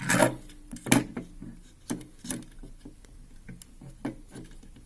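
Handling noise from a toy tram model: a series of light clicks and knocks with some rubbing, about half a dozen at uneven intervals, the first two the loudest.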